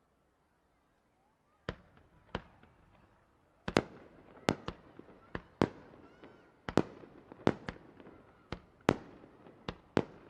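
Fireworks bursting overhead: two sharp bangs, then a rapid run of bangs about one to two a second, with crackling between them, starting about a second and a half in.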